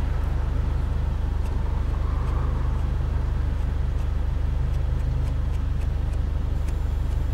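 Peugeot RCZ R's turbocharged four-cylinder engine running steadily, heard as a low hum inside the cabin, with a few faint clicks from the climate control's temperature knob being turned.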